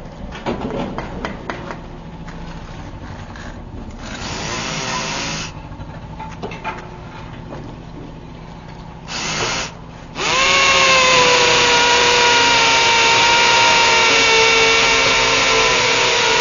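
Electric drill run in two short bursts, then spinning up about ten seconds in and running steadily at speed with a constant whining tone.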